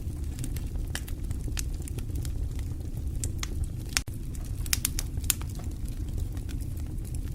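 Wood fire crackling: irregular sharp pops and snaps over a steady low rumble, with a brief dropout about four seconds in.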